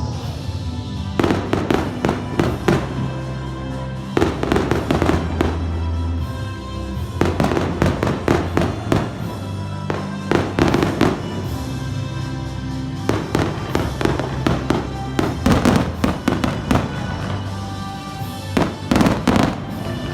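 Fireworks crackling and popping in about six bursts of rapid cracks, each lasting a second or two. Music with a steady bass line plays throughout.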